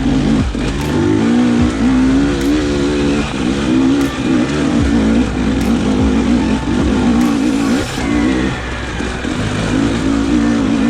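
Dirt bike engine revving up and down in quick surges as the throttle is worked, with short knocks scattered through.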